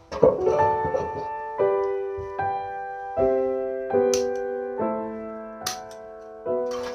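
Slow piano music: soft chords struck about once a second, each left to ring and fade. A few light clicks sound over it in the second half.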